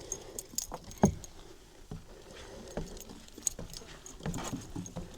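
Irregular light clicks, clinks and knocks, the loudest a knock about a second in.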